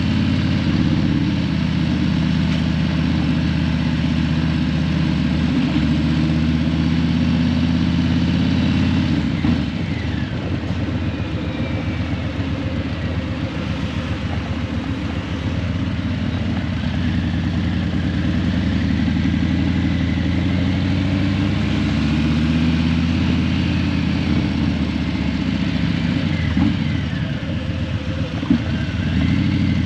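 Harley-Davidson Breakout 117's Milwaukee-Eight 117 V-twin running through Vance & Hines Eliminator 300 slip-on mufflers on the move, its pitch rising and falling with the throttle. It gets a little quieter about ten seconds in.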